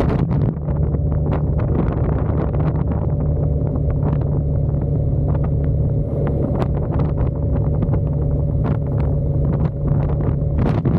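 Motorcycle engine running at a steady cruising speed, its hum holding one pitch, with wind buffeting the microphone in many short crackles.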